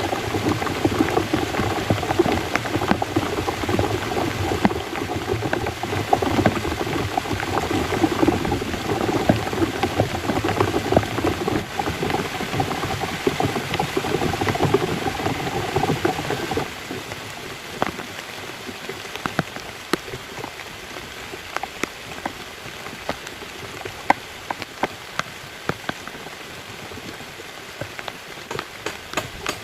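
Heavy rain falling densely on a surface. About halfway through it suddenly drops to lighter rain, with individual drops heard striking one at a time.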